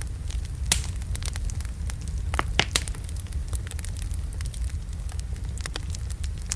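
Wood logs burning in a fireplace: a steady low rumble of the flames with frequent sharp crackles and a few louder pops, the loudest a little under a second in and twice between two and three seconds in.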